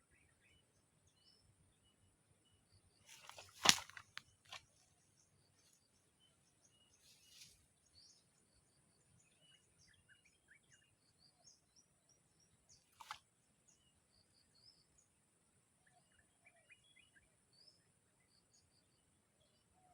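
Small birds chirping faintly with short scattered calls. One sharp knock or click stands out about four seconds in, with a weaker one about thirteen seconds in.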